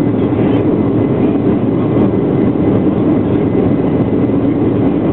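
Boeing 737-800's CFM56-7B turbofan engines at take-off power, heard from inside the passenger cabin as a loud, steady, deep rushing noise.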